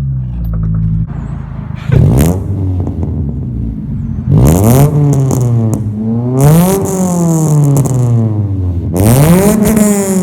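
Honda Accord's four-cylinder engine through a full straight-pipe stainless exhaust, idling and then revved four times: a short blip about two seconds in, then three longer revs that climb and fall back slowly, loud and raspy.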